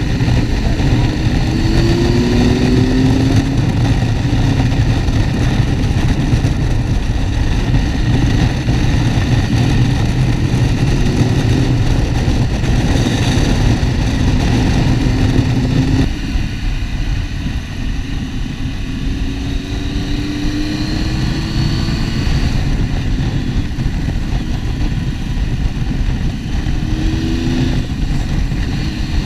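Motorcycle riding at speed, heard from a helmet-mounted camera: a steady rush of wind with the engine note rising and falling several times as the throttle is worked. About halfway through the sound drops a little quieter.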